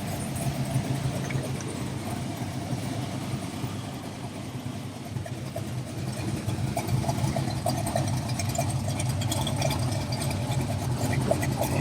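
Car engine idling steadily, getting somewhat louder in the second half.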